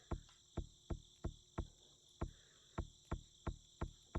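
Steady high chirring of crickets, overlaid by a string of short, soft thuds at an uneven pace of about two to three a second.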